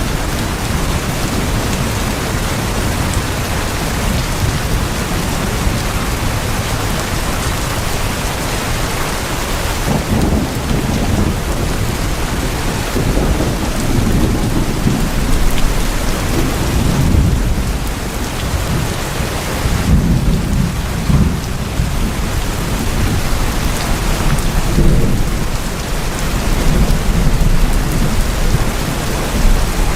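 Heavy rain drumming steadily on tin roofs, a dense continuous patter. From about a third of the way in, low rumbles swell and fade beneath it.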